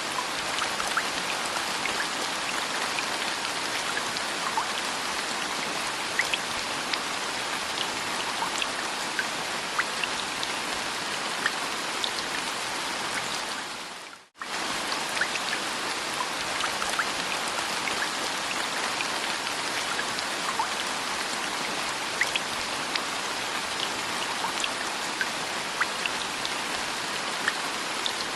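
Steady rain falling, with many distinct drops pattering on a surface. About halfway through it fades out for a moment and comes straight back, like a looped rain recording starting over.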